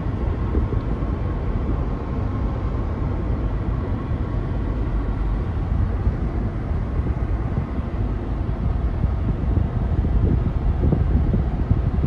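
Steady rumble of tyre, road and engine noise inside a car's cabin at highway speed, swelling slightly near the end.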